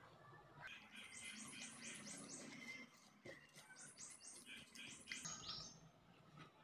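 Faint, rapid high-pitched chirping from a bird, in two quick bouts, one starting about a second in and another around four seconds in.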